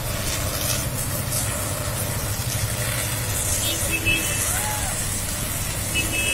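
Heavy rain pouring down on a flooded street, a steady rushing noise with a low hum underneath.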